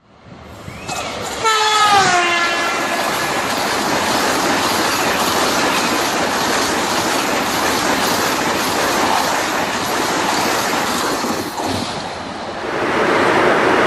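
Train 18, an Indian electric multiple-unit express, passing at high speed. Its horn sounds briefly about a second and a half in, dropping in pitch as the train goes by, and is followed by a steady rush of noise as the coaches sweep past.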